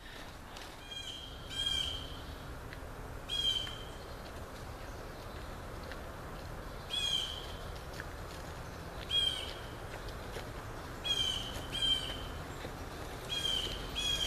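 A bird calling over and over: short calls at irregular gaps, a few seconds apart at times and in quick pairs at others, over a steady outdoor background hiss.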